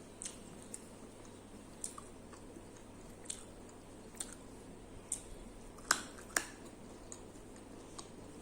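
Close-miked chewing, with short wet mouth clicks at irregular intervals, the loudest two about six seconds in.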